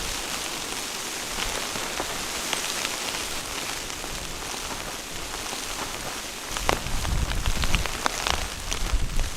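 Steady hiss of blizzard snow driven against a surface, with scattered light ticks. About two-thirds of the way in, a low rumble and several sharper knocks join in.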